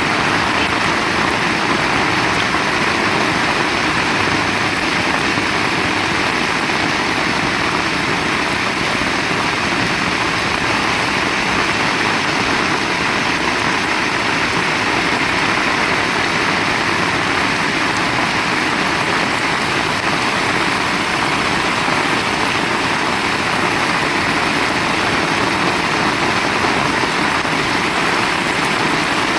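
Heavy rain pouring down in a steady, unbroken hiss at a constant level.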